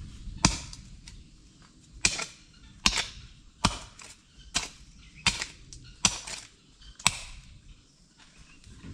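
A series of about eight sharp knocks or strikes, roughly one a second at an uneven pace, each with a short ring-out.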